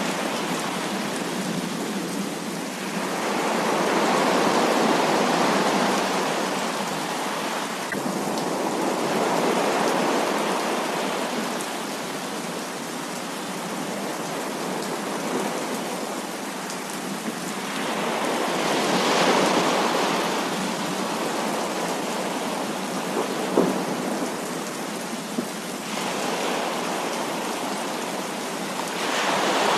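Heavy rain falling steadily, with rolls of thunder swelling up and fading away several times. A couple of sharp taps come about two-thirds of the way through.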